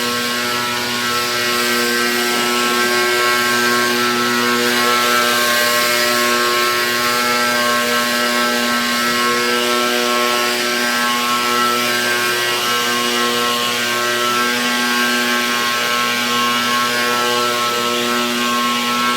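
Small gas engine of lawn-care equipment running steadily at a constant speed, a continuous drone with no let-up.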